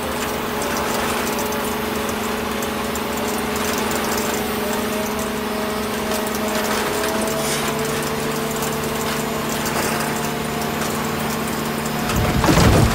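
Small electric motor driving a home-made miniature crusher's toothed rollers, running with a steady hum that shifts in pitch about seven seconds in. About twelve seconds in, a louder rough noise rises over it as material is fed into the hopper.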